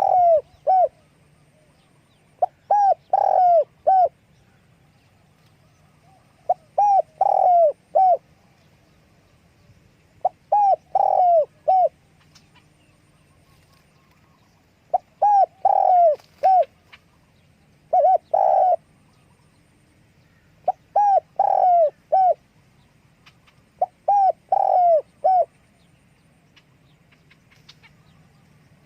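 Spotted dove cooing: short phrases of three to five falling coos, repeated about every three to four seconds.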